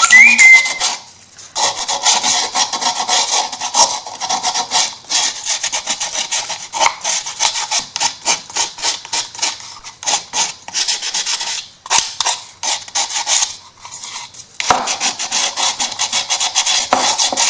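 Quick back-and-forth rasping strokes of a sanding file on MDF wood and paper, several strokes a second, with brief pauses about a second in and again near the end.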